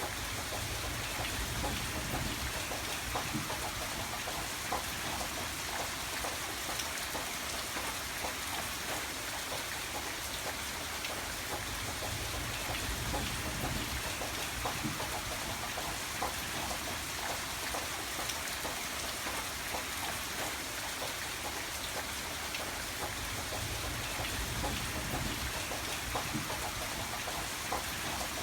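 Steady rain falling on a surface, with many individual drops ticking through the constant hiss. A low rumble swells and fades about three times underneath.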